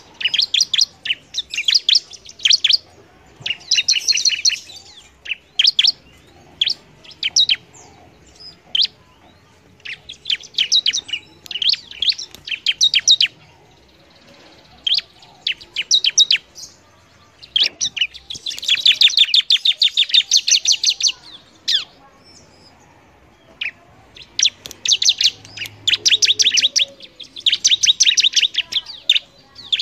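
Bar-winged prinia (ciblek) singing actively: rapid strings of sharp, high chirps in bursts of one to three seconds, with short pauses between.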